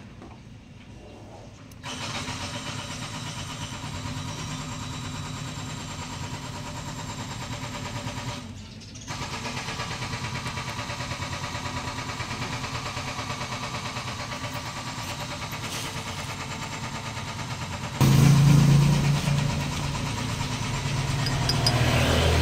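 Honda CB125 motorcycle being cranked on its electric starter in two long runs, with a short break about eight seconds in. About eighteen seconds in the sound turns much louder and deeper. The owner blames the starter and suspects its carbon brushes.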